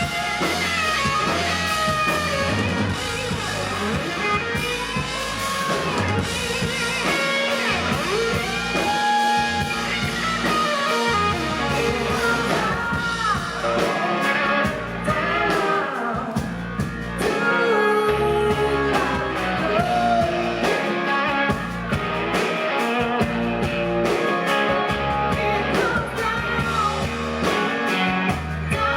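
A blues-rock band playing live, with guitar, bass and a drum kit, and a singer's voice over them.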